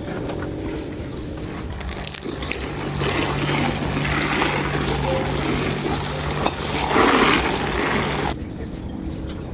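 Running water gushing, starting suddenly about two seconds in and cutting off abruptly near the end, with a steady low hum under it.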